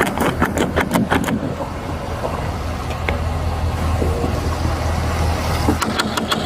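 A motor vehicle running with a steady low hum. A rapid run of sharp clicks and rattles sounds at the start and again near the end.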